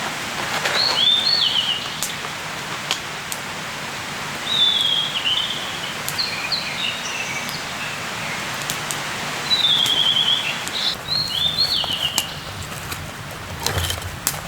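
Small songbirds calling in the forest: short, quick descending chirp phrases repeated every few seconds, heard over a steady background hiss with a few scattered sharp clicks.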